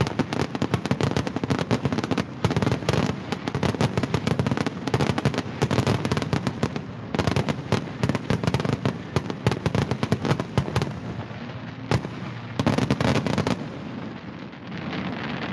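Fireworks going off in a rapid, dense barrage of bangs and crackles, typical of a display's finale. The barrage thins out after about 11 seconds, with a last few bursts around 12 to 13 seconds, then dies away.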